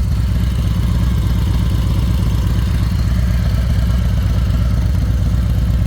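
Harley-Davidson Road Glide's V-twin engine idling steadily, a low, even rumble that stays unchanged throughout.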